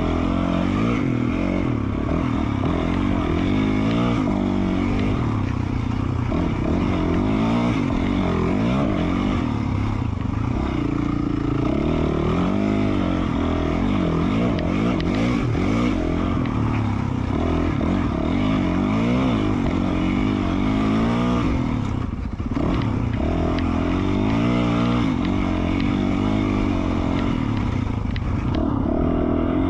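2020 Yamaha YZ450F's single-cylinder four-stroke engine with an FMF Q4 slip-on exhaust, revving up and down continually as the dirt bike is ridden on a trail. The throttle is briefly closed about two-thirds of the way through.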